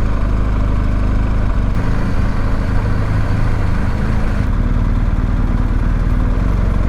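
BMW R1250GS motorcycle's boxer-twin engine running steadily at low speed while riding, with a constant low rumble under a haze of road and wind noise.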